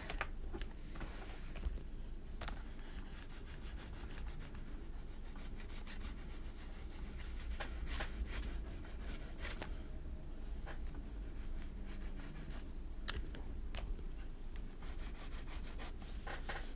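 A wax pastel crayon rubbing steadily over paper as color is shaded in, with a few light taps.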